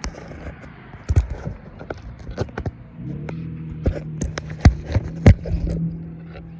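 Repeated knocks and clicks of a phone being handled and set in place close to the microphone. A steady low hum comes in about three seconds in.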